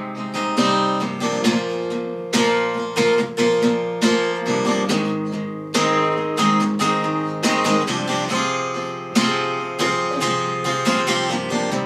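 Acoustic guitar played alone in an instrumental break of a song, chords strummed and picked with repeated string attacks.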